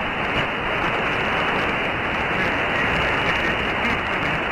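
Steady static hiss from a CB radio receiver on an open channel, the band noise of long-distance skip reception, with no treble.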